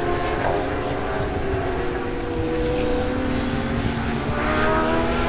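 Racing superbike engines heard from trackside, a steady multi-tone engine note sliding slowly down in pitch, then a second bike's engine rising in pitch as it accelerates, from about four seconds in.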